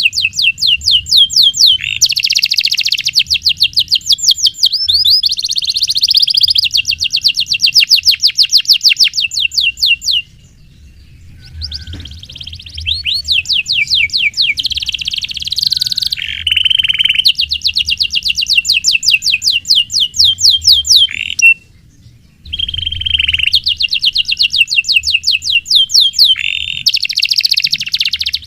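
Domestic canary singing long, loud phrases of rapid, rolling trills, each made of quickly repeated high notes, with the song breaking off twice for a brief pause.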